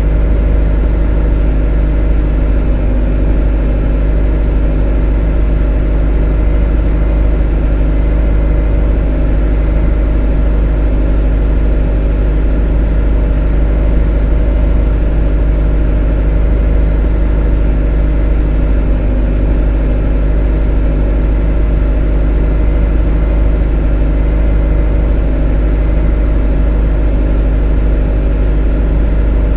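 A motor running loud and steady at a constant speed: a deep hum with a stack of steady overtones that never changes.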